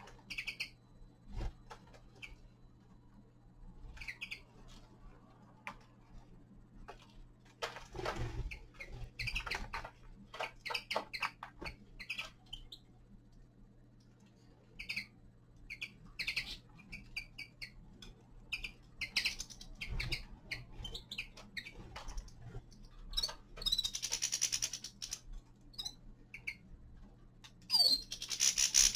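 Small caged finches giving short, scattered chirping calls, with a couple of louder rustling bursts about two-thirds of the way in and again near the end.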